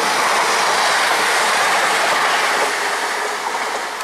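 A ScotRail Class 380 electric multiple unit passing along the platform: a steady, loud noise of its wheels on the rails and its running gear, fading near the end as the train moves away.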